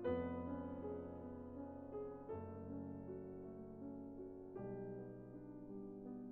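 Soft background piano music, slow sustained chords changing about every two seconds.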